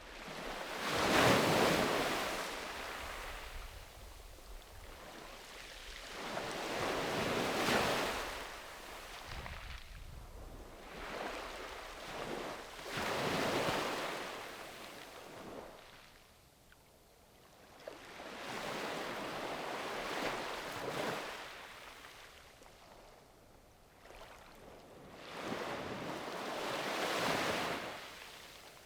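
Sea waves breaking on the shore, about six surges of surf in turn, each swelling and washing out over a few seconds. The first wash, about a second in, is the loudest, and there is a quieter lull past the middle.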